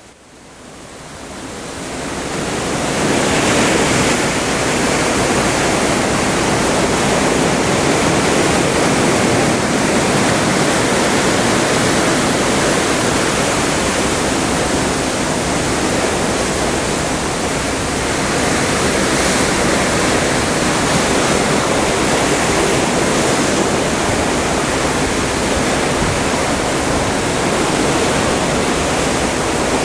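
Open Atlantic seawater rushing and churning alongside a moving cruise ship in a steady, even rush. It fades in over the first three seconds, then holds level.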